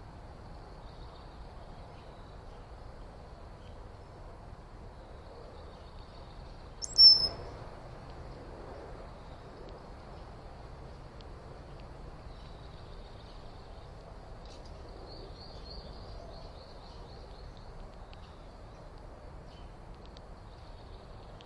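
A bird gives one short, sharp, loud call close to the microphone about seven seconds in, in two quick parts, with softer chirps around fifteen seconds in. Under it runs a faint steady high-pitched hum and low outdoor background noise.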